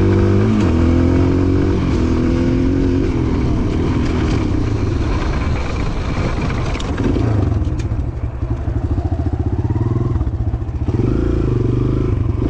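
Small gas pit-bike engine running under a rider, its pitch rising and falling with the throttle. About halfway through it drops to a low, lumpy chug with separate firing beats, then climbs again.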